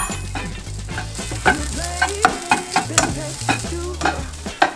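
Rice, egg and crushed ramen stir-frying in a hot pan: steady sizzling, with frequent clicks and scrapes of the spatula against the pan as it is stirred.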